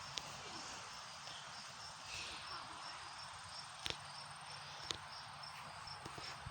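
Crickets chirping in a steady, evenly pulsed high trill, with two sharp knocks about four and five seconds in.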